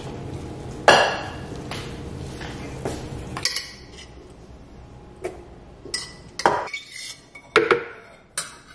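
Gloved hands working dough in a stainless steel bowl, with a sharp knock about a second in. From about three and a half seconds, a spoon clinking and scraping against a steel pot and a blender jar as cooked sweet potato is scooped across, in separate taps about once a second.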